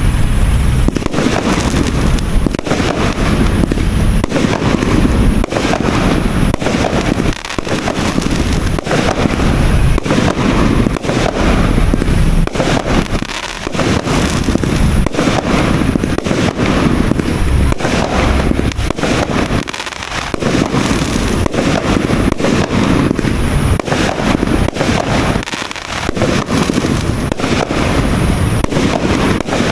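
A 200-shot, 1-inch fireworks cake firing in rapid succession: a dense, unbroken stream of launch thumps and bursts, with a few brief lulls.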